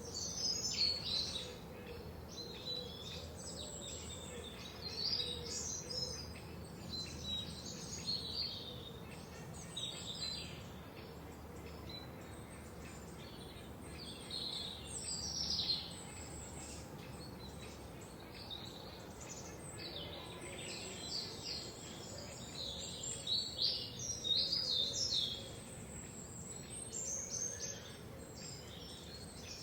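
Several songbirds singing and chirping in a forest, with short high twittering phrases coming in bursts, busiest about a second in, around fifteen seconds and near twenty-four seconds, over a faint steady background hiss.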